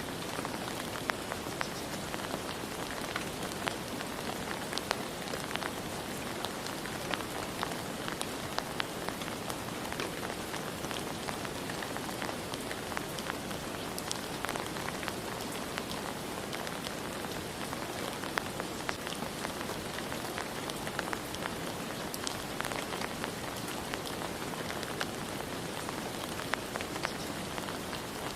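Steady rain falling: an even hiss with many separate drop strikes scattered through it.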